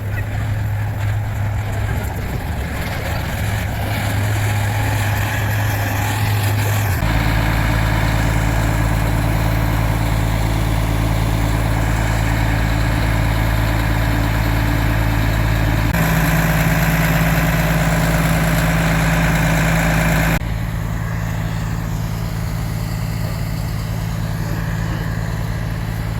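Diesel cog railway locomotive engine running steadily with a low hum. The sound shifts abruptly about 7, 16 and 20 seconds in.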